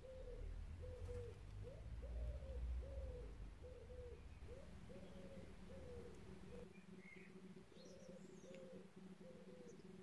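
A bird's low cooing calls, a steady run of short notes about two a second, with a low rumble under the first part that stops about two-thirds of the way in.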